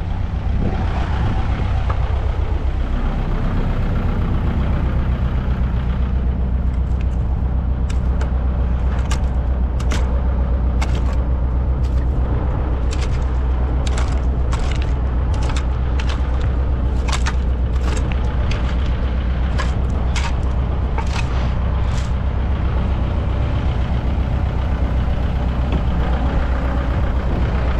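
Heavy diesel engine of construction equipment running steadily at a low drone. Between about six and twenty-two seconds in, it is overlaid by a scattered run of sharp clicks and clanks.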